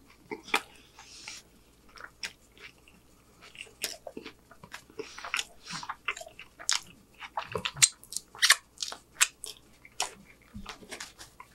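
Close-miked chewing of a mouthful of street taco: irregular wet smacks and mouth clicks, sparse at first and coming thicker and faster from a few seconds in.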